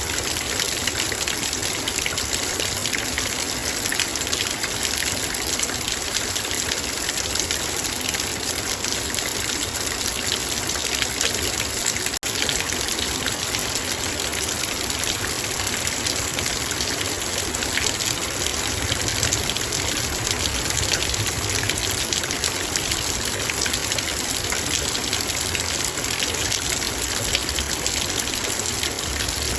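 Heavy rain falling on a metal bowl: a steady, dense patter of countless small drop ticks on the metal, blending into an even rushing hiss.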